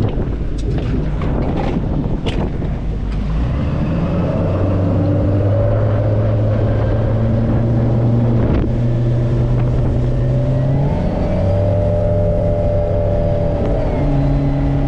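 Boat motor running under way over a steady rush of wind. From a few seconds in its pitch steps up and down several times as the throttle changes.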